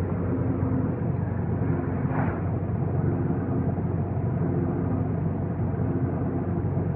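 2015 Volkswagen GTI running, a steady low drone with pitched tones coming and going, carrying the grinding noise the owner complains of; a brief sharper noise rises about two seconds in.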